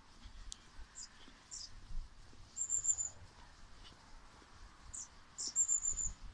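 A small songbird singing high, thin notes: two short chirps followed by a quick run of about five notes, the phrase heard twice.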